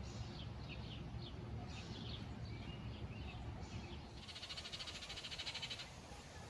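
Birds calling outdoors: short chirps and whistled notes, then about four seconds in a rapid pulsing trill begins, breaks off briefly near the end and starts again.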